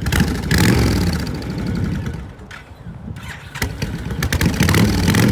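Honda Fury 1300 cc V-twin motorcycle engine running through its slash-cut exhaust with the throttle blipped. The revs rise about half a second in, drop to a quieter, lower note around two to three seconds in, then climb again.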